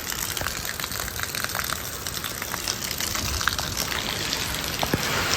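Heavy rain falling steadily during a thunderstorm, with many scattered drops tapping close by.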